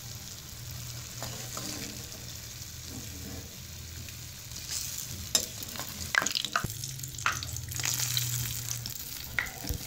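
Urad dal fritters (bhallay) sizzling in hot cooking oil in a frying pan. From about halfway, sharp clicks and knocks of a metal slotted spoon against the pan come over the sizzle as the fritters are scooped out.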